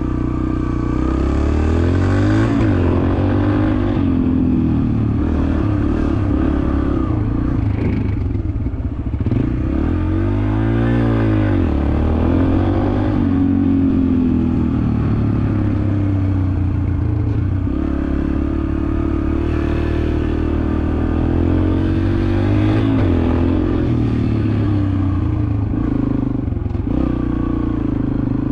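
A 2023 Yamaha TT-R125 dirt bike's single-cylinder four-stroke engine running as the bike is ridden, its pitch rising and falling over and over with the throttle, with one sharp rev up and down about ten seconds in.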